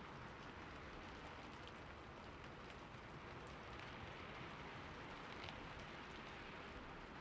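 Steady rain falling on a roof, with scattered individual drops ticking through the even hiss.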